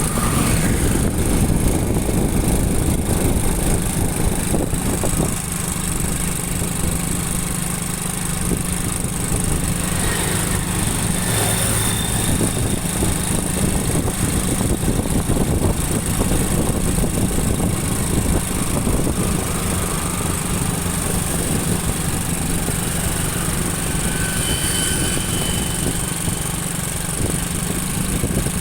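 Motorcycle engine running at a steady pace while riding, a constant low hum under wind and road noise.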